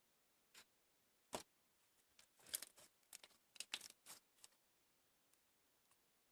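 Faint handling sounds: a scatter of small clicks and rustles, bunched together in the first four and a half seconds.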